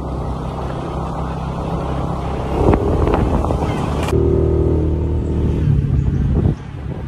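Small motorcycle engine running steadily as the bike climbs a hill road. Its note changes about four seconds in and dips briefly near the end.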